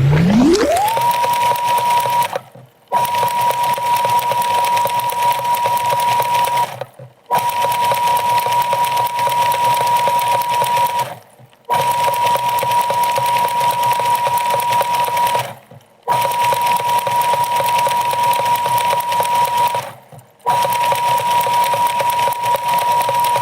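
A dishwasher's wash pump spins up with a rising whine, then runs steadily while water sprays and splashes over the camera. It cuts out briefly about every four and a half seconds, and winds down with a falling whine at the end.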